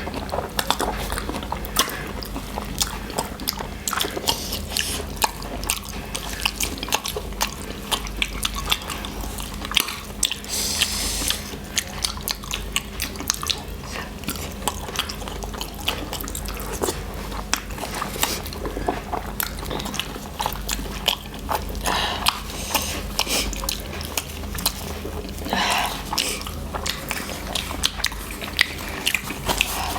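Close-up eating of noodles: irregular wet mouth clicks and smacks of chewing, with a few longer slurps about ten seconds in and near the end. A steady low hum runs underneath.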